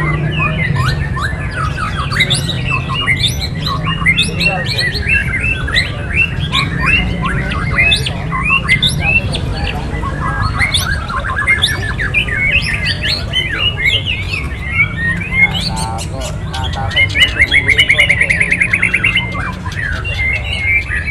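Many songbirds calling at once: dense, overlapping chirps, whistles and squawks, with a fast run of rapidly repeated notes near the end.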